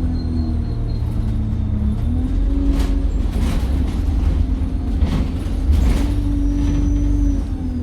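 Alexander Dennis Enviro 200 bus engine running under way, with a thin high turbo whistle that fades in the first second and comes back near the end as the engine pulls. Several short knocks and rattles sound in the middle.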